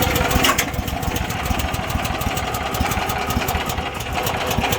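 Mini excavator's small engine starting on a hard pull of its recoil starter, catching right away and settling into a steady idle with rapid, even firing. It is started by hand because the key starter switch will not crank it.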